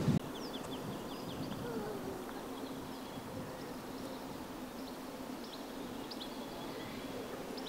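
Outdoor ambience of small birds chirping, with a quick run of short high notes just after the start and scattered chirps after that, over a faint steady low hum.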